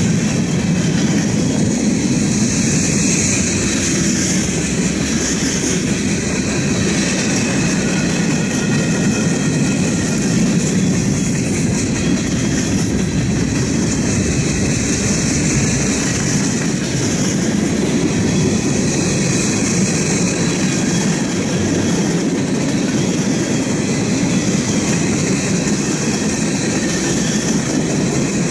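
Freight cars of a long Norfolk Southern train (covered hoppers, a gondola, tank cars) rolling past at close range: a steady, unbroken clatter of steel wheels over the rail joints.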